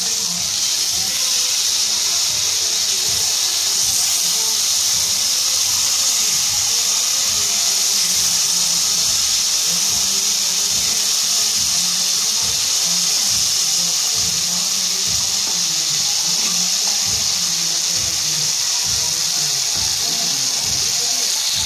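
Masala-coated chicken pieces shallow-frying in hot oil in a nonstick pan: a steady, loud sizzle.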